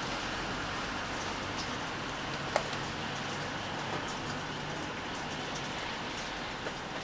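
Steady rain falling, with scattered drops ticking and one sharper drip about two and a half seconds in.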